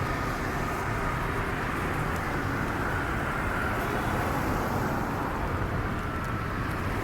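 Steady street traffic noise: a continuous low rumble of vehicles with no single event standing out.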